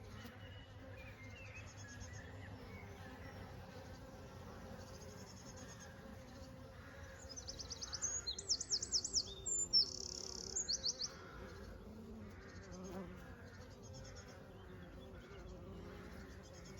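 Honey bees buzzing in a steady hum. About halfway through, a bird sings a short burst of rapid high trills over it, louder than the buzzing.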